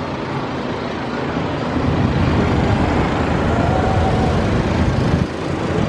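Street traffic noise from vehicles on the road, swelling louder from about two seconds in, as if a vehicle passes close, then dropping off sharply near the end.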